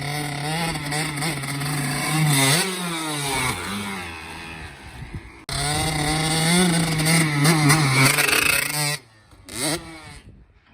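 85cc two-stroke dirt bike engine running and being revved, its pitch sweeping up sharply about two and a half seconds in. It breaks off abruptly at about five and a half seconds, picks up again, and fades out near the end after one more short rev.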